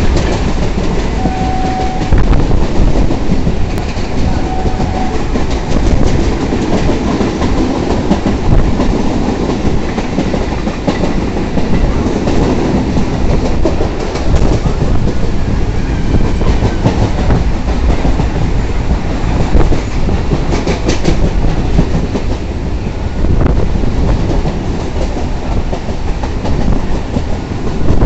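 Indian Railways passenger train running at speed, heard from its open doorway: a steady rumble with the wheels clattering rhythmically over rail joints and points.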